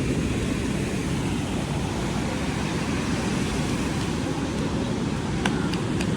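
Steady low rumbling outdoor background noise with no clear single source, and a few sharp clicks near the end.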